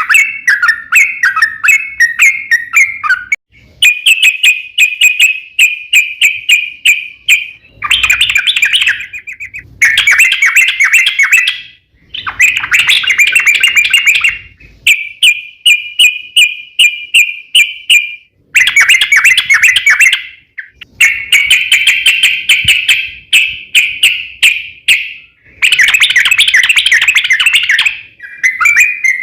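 Yellow-vented bulbul (trucukan) singing: loud phrases of rapid, repeated bubbling notes, each a few seconds long, with short pauses between them.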